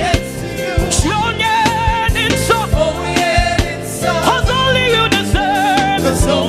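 Live gospel worship music: a band with regular drum beats and sustained keyboard chords, under a singer's held, wavering vocal lines with vibrato.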